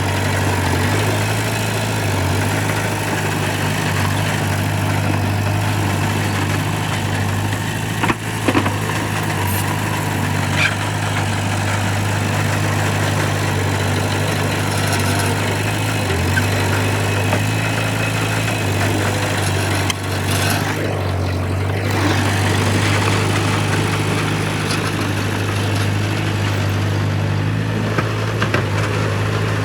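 Heavy diesel engine of earthmoving machinery running steadily, with a few brief sharp knocks about eight and ten seconds in.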